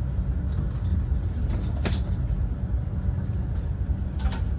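Steady low rumble of a Renfe class 130 (Talgo 250) high-speed train running, heard from inside the passenger car, with two brief clicks, one about two seconds in and one near the end.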